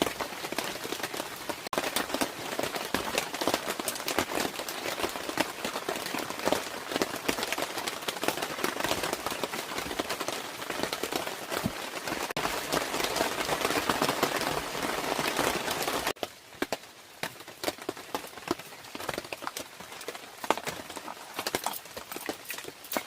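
Heavy rain, a dense patter of many separate drops striking close by; about two-thirds of the way through it drops suddenly to a quieter, sparser patter.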